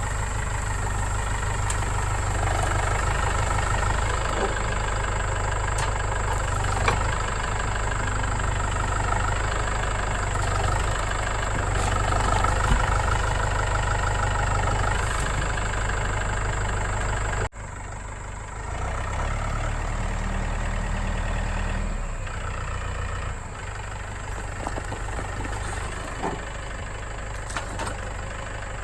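Diesel tractor engine running steadily, with a few light knocks. The level drops suddenly about two-thirds of the way in, and the engine carries on quieter.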